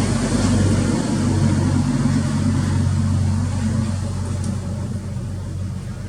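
A motor running with a steady low hum, getting quieter over the last couple of seconds.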